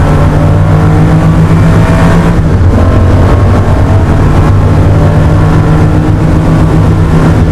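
Porsche 911 SC's air-cooled 3.0-litre flat-six race engine heard loud from inside the cabin, running at steady revs under power, with a brief dip in its note about two and a half seconds in.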